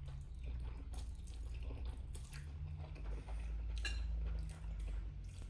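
People eating noodles from spoons: quiet chewing and mouth sounds with a few light clicks of spoon on bowl, a sharper one about four seconds in, over a low steady hum.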